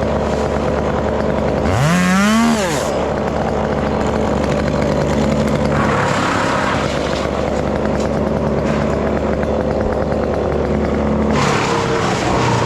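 Stihl MS 201 two-stroke top-handle chainsaw running at idle, with one quick rev up and back down about two seconds in.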